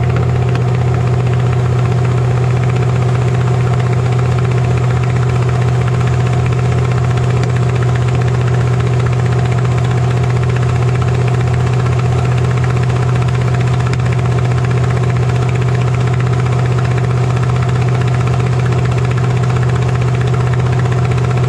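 A vehicle engine idling steadily and loudly at a constant pitch, with no revving.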